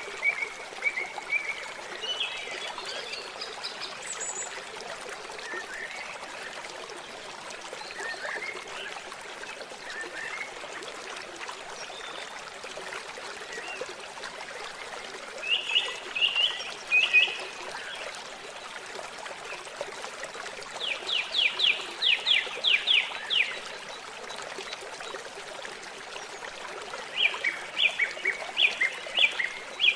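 Steady trickling, flowing water with birds calling over it: scattered short calls, a few louder notes around the middle, and rapid series of sharp, evenly repeated chirps about two-thirds through and again near the end.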